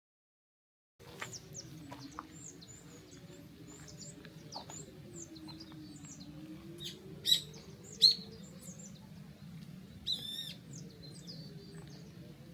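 Many small birds chirping and calling over a low steady hum, starting about a second in after a moment of silence. Two louder calls stand out about seven and eight seconds in, and a short warbling call follows near ten seconds.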